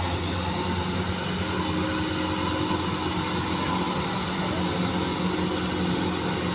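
Kubota rice combine harvester running steadily: an even engine hum with machinery noise that holds constant throughout.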